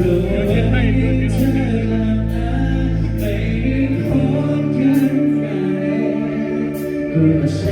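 Live bar band playing with a singer: held bass notes under a sung vocal line, with cymbal and drum hits every second or so.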